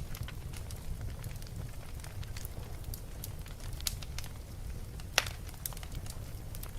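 Fire burning in a fireplace, crackling with scattered small pops over a low steady rumble, and one louder pop about five seconds in.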